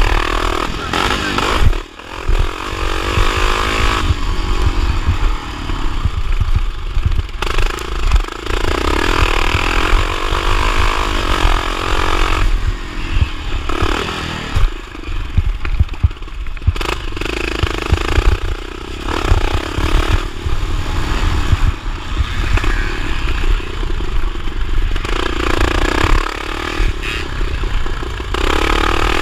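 Motorcycle engine under race throttle, the revs rising and falling again and again with short dips as the throttle is rolled off and opened, over a steady low rumble.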